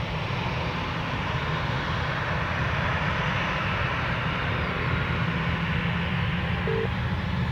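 Jet airliner's engines at takeoff power, a steady rumble that grows slowly louder as the aircraft rolls for departure.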